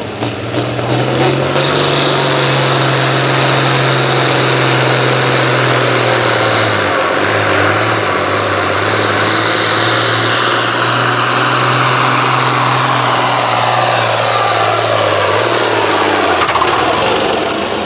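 International Harvester 1466 tractor's turbocharged six-cylinder diesel working hard under load while pulling the sled: a loud, steady drone with a brief dip about seven seconds in, winding down near the end as the pull finishes.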